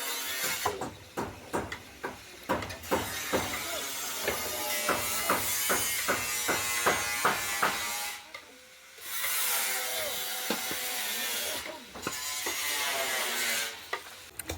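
Carpentry work on timber during house building: a run of sharp, rhythmic strokes at about three a second, with a short pause about eight seconds in.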